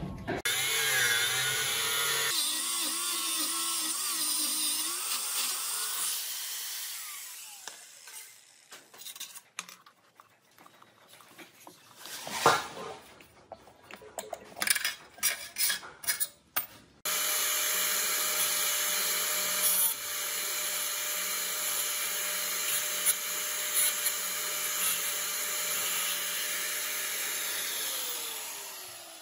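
A power tool running steadily, then winding down. A stretch of scattered clicks and scrapes follows, then a power tool runs steadily again and fades out near the end.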